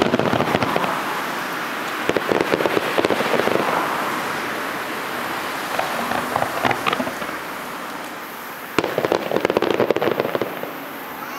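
Fireworks finale: shells bursting overhead in waves of dense, rapid crackling, with a sharp bang about nine seconds in followed by more crackle.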